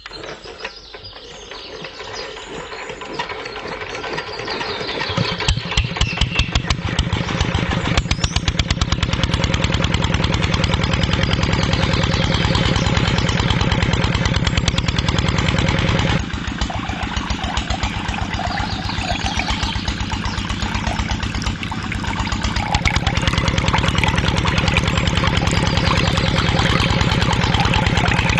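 Small engine running with a rapid, even firing beat. It builds up over the first several seconds, then runs steadily, with an abrupt change in the sound about sixteen seconds in.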